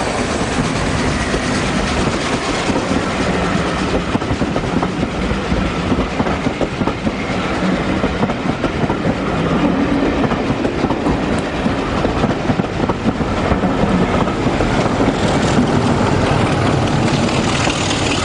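A heritage train running on the line, wheels clattering over the rail joints with a low drone underneath, getting slightly louder in the second half.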